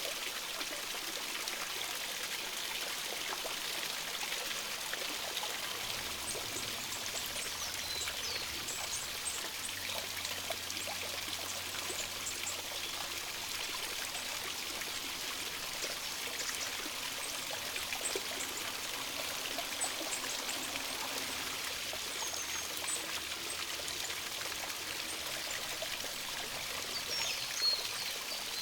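Steady rush of a small stream running over rocks, with faint high bird chirps now and then and a quick run of chirps near the end.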